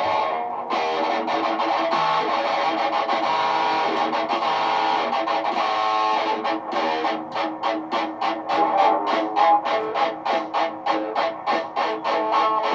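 Layered electric guitar loops playing sustained, overlapping notes. About halfway through, the sound changes to a quick, even rhythm of short strummed notes.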